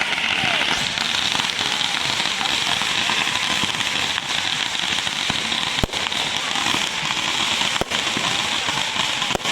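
Fireworks crackling densely and continuously, with a few sharper single bangs standing out about six, eight and nine seconds in.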